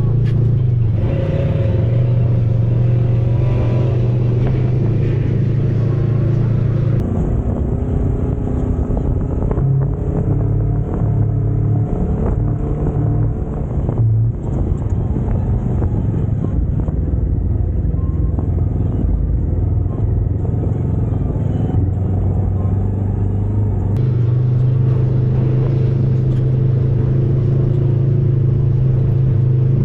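Side-by-side UTV's engine running as it drives along, a steady deep drone that changes abruptly about seven seconds in and again about six seconds before the end.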